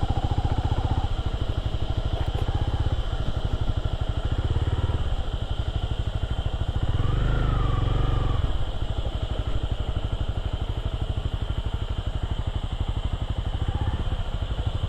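Motorcycle engine running at low revs, a steady rapid pulsing from its firing, growing louder briefly about seven seconds in.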